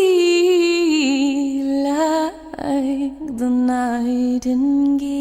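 A woman singing unaccompanied, holding long notes with vibrato, with short breaks about two and three seconds in.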